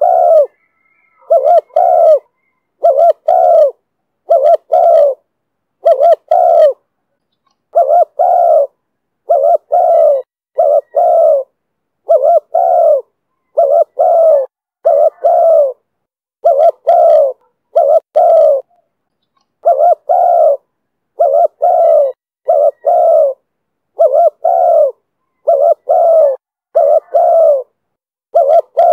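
Spotted dove cooing over and over: short low coos, mostly in pairs, repeated steadily with brief gaps between them, in the call style that Vietnamese dove keepers call 'thổ thúc bổi'.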